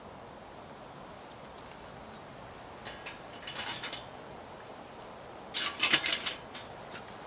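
Two clusters of short, sharp clicks and scrapes, one about three seconds in and a louder one near six seconds: a fire lighter being lit in a small folding titanium camp stove.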